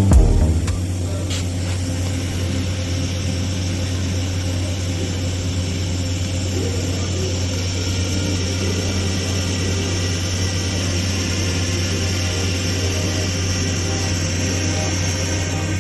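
TIG welding arc on stainless steel pipe, burning steadily with an even buzzing hum during the root pass.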